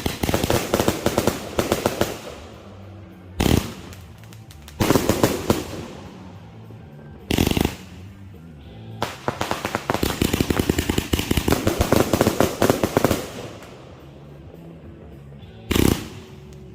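Consumer firework cake (multi-shot aerial repeater) going off: dense runs of rapid shots and crackling bursts, the longest lasting about four seconds near the middle, with brief single bursts between them.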